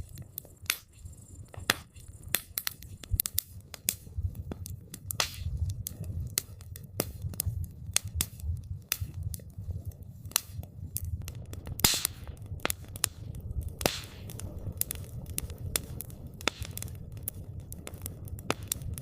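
Campfire burning: wood crackling and popping in many sharp, irregular snaps over a low rumble of the flames, with one louder pop about twelve seconds in.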